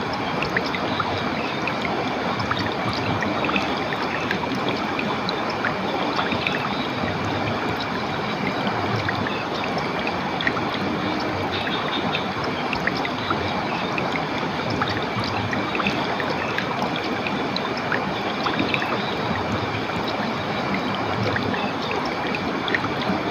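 Clear water of a stream or small waterfall running steadily, with scattered small splashes.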